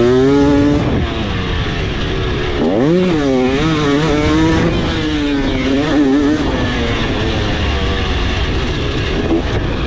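KTM 300SX 300 cc single-cylinder two-stroke dirt bike engine ridden under throttle. The pitch climbs, drops sharply just under a second in, then sweeps up again near three seconds in and wavers with the throttle before easing into a steadier, gently falling note.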